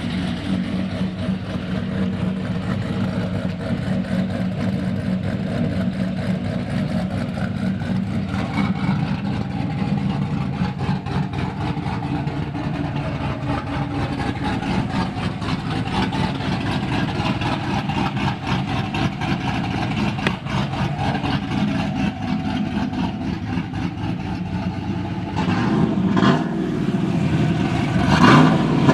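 Engine idling steadily after a cold start, growing louder near the end.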